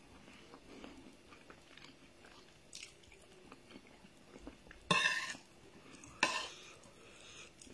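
A person chewing a mouthful of rice and fish, with soft wet mouth sounds. Two short, louder noises come about five and six seconds in.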